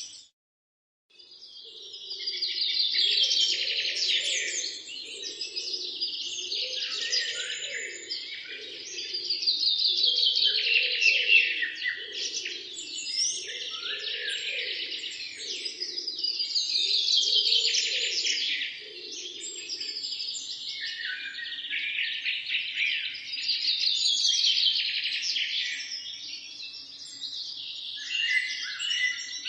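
Many small birds chirping together in a dense chorus of high, overlapping tweets, rising and falling in waves. It starts after a second-long break and runs on without pause. Underneath, a fainter low pulsing call repeats about once a second until roughly two-thirds of the way through.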